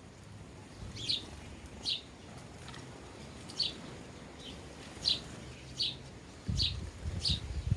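Sparrows chirping: a string of about eight short, single, down-slurred chirps, roughly one every second or less. Low rumbling comes in near the end.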